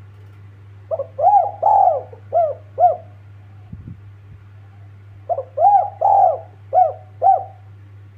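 Spotted dove (tekukur) cooing: two phrases of about five short notes each, each note rising and falling in pitch, a couple of seconds apart. A steady low hum runs underneath.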